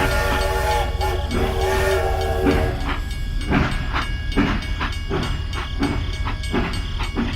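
A train's horn sounds a chord of steady tones twice, then the wheels clatter in a steady rhythm about twice a second over a low rumble.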